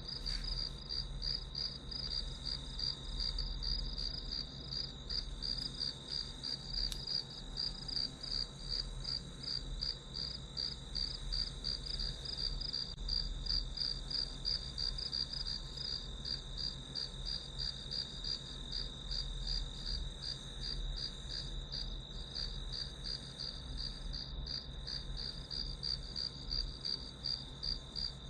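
Crickets chirping: a steady, high-pitched pulsing trill that goes on without a break, over a low hum.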